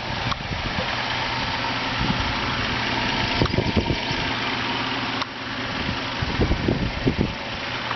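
A 2008 Cadillac CTS's 3.6-litre V6 idling steadily, a very quiet engine. A few short low thumps come in the last couple of seconds.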